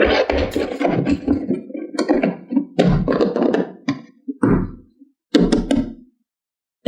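Toy cars and plastic playset pieces being handled, knocking and clattering in a run of bursts that stop about six seconds in.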